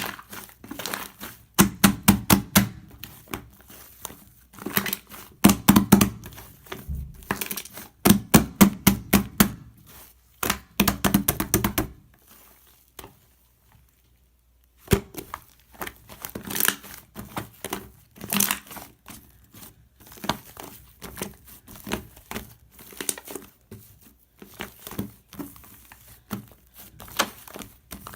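Shaving-foam slime being squeezed and worked by hand, giving bursts of rapid crackling clicks and pops, with a pause of a few seconds near the middle.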